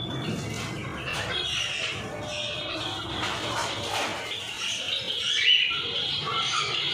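Aviary of lovebirds, cockatiels and finches calling together: many overlapping short, high calls without pause.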